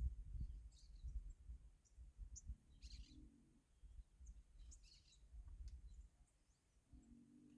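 Small birds chirping faintly in short high calls, bunched around three seconds and five seconds in, over a low rumble that dies away near the end.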